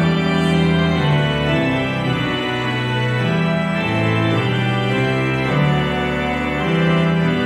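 Organ playing slow, held chords that change about once a second, in a church.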